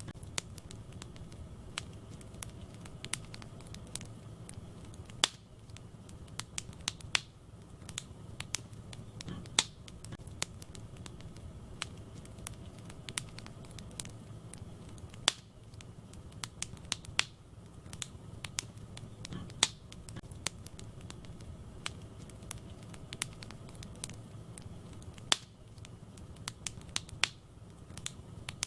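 Wood fire burning in a fireplace: irregular sharp crackles and pops, a few louder snaps standing out, over a steady low rumble of the flames.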